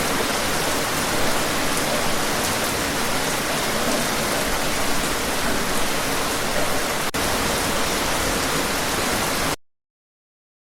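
Steady heavy rain, an even hiss with no thunder, that cuts off abruptly to silence near the end.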